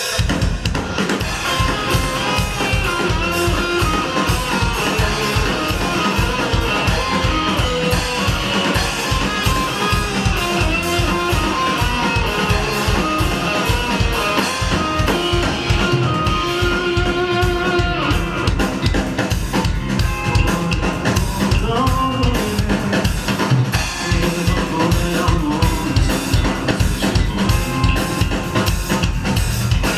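Live rock band playing: a drum kit keeps a steady beat under electric guitar and bass.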